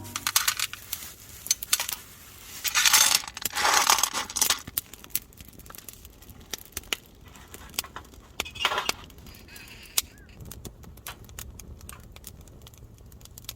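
Wood campfire crackling with scattered sharp pops, and metal clinks and clatter of a frying pan being set in place, loudest about three to four seconds in and again near nine seconds.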